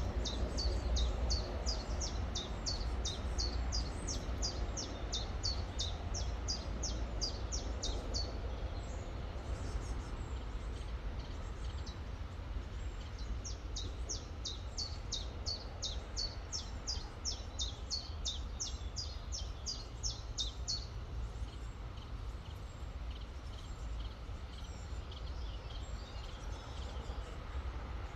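A small songbird singing long runs of quick, high, falling notes, about two to three a second, in two bursts several seconds each, over the steady rush of a river with a low rumble.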